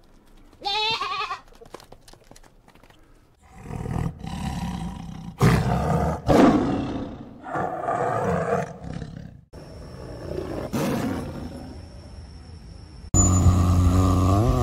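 Tiger growling and roaring in a run of deep, loud calls from about four to nine seconds in, after a short high call near the start. Near the end a different low, pitched animal call begins suddenly.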